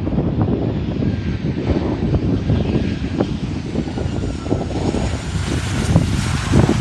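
Airplane engines running as an aircraft passes, a low rumble with a faint high whine that slides in pitch, with wind buffeting the microphone.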